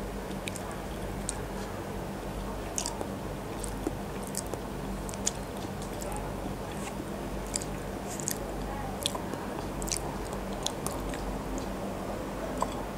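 Close-miked chewing and biting of a boiled chicken embryo egg (khai hang hang), heard as irregular, sharp little mouth clicks and smacks over a steady low hum.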